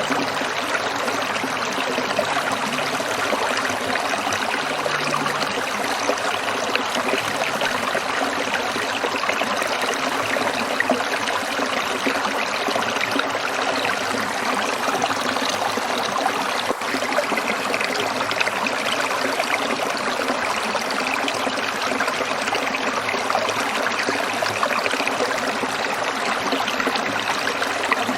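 A small stream trickling and babbling over stones, a steady, even flow of water.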